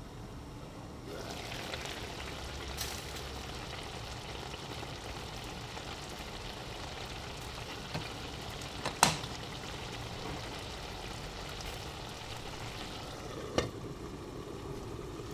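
Food sizzling in a hot pan, a steady sizzle that starts about a second in and dies away near the end, with a few sharp clicks from a utensil, the loudest about nine seconds in.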